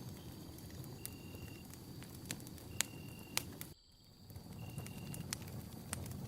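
Campfire burning: a low, rushing flutter of flames with sharp pops and crackles of wood, two of them louder near the middle. The sound briefly drops out just after the middle. Over it, a short high note repeats about every two seconds above a faint steady high tone.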